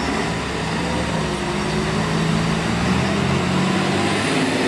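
Heavy fire truck's engine running as it drives, a steady low drone over road noise.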